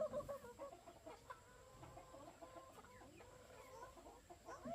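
A flock of chickens clucking softly, with many short overlapping calls that are busiest at the start and again near the end.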